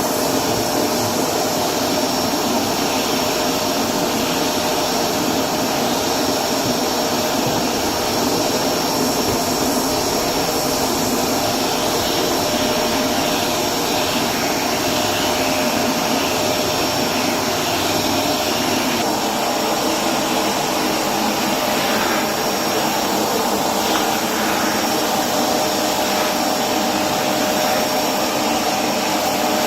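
Electrolux Precision bagless upright vacuum cleaner running steadily with a high, constant whine, its hose and wand nozzle being worked over hard floor. The lower part of the sound shifts slightly about two-thirds of the way through.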